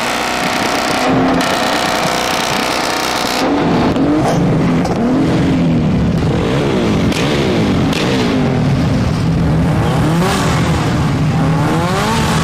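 Car engine with a loud exhaust, held at a steady rev for a few seconds, then revved over and over, its pitch rising and falling about once a second.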